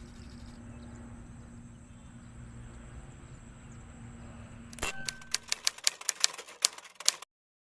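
A low steady hum, then about a dozen sharp typewriter-like clicks in quick succession, starting about five seconds in and stopping abruptly after two seconds or so.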